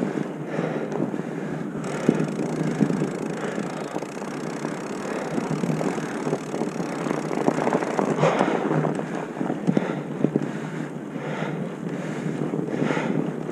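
Wind buffeting the microphone: a continuous rough rushing that rises and falls in gusts.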